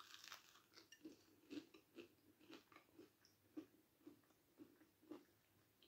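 A bite into a breadcrumb-coated cod-and-salmon fishcake, followed by quiet, steady chewing at about two chews a second.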